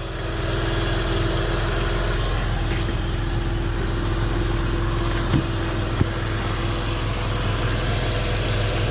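A 1999 Porsche Boxster's 2.5-litre water-cooled flat-six idling steadily, which the owner finds free of funny noises. Two short light clicks come about five and six seconds in.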